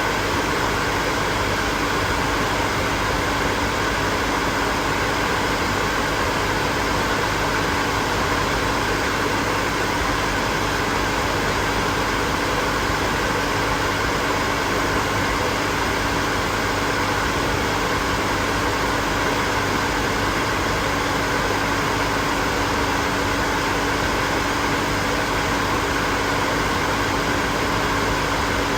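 Hair dryer running steadily: an even rush of blown air with a constant motor hum underneath.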